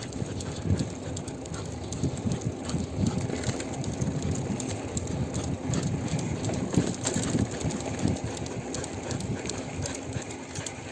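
Bicycle being ridden with a husky pulling it on a seat-post dog leash: a steady low rumble from tyres and wind on the microphone, with many small irregular rattles and knocks.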